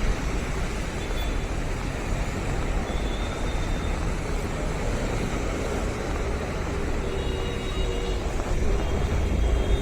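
Steady roar of road traffic, heaviest in the low rumble, with a few faint steady tones joining near the end.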